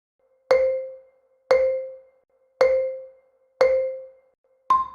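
Countdown sound effect: four identical marimba-like notes about a second apart, each ringing and fading, then a fifth, higher note near the end.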